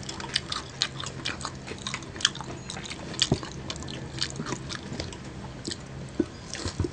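Close-up chewing and biting of crispy fried chicken wings and onion rings: many short, sharp crunches at an irregular pace.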